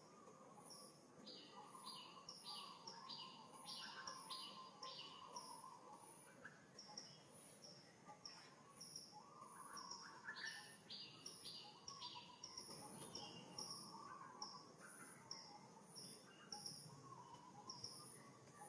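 Faint birds chirping, with short high notes repeating throughout and two bursts of rapid pulsed calls, one about a second in and one about ten seconds in.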